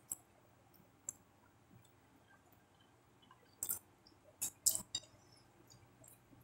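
Close-up eating sounds: wet mouth clicks and lip smacks while chewing fish eaten by hand. A few single clicks early, then a quick cluster of louder clicks about three and a half to five seconds in.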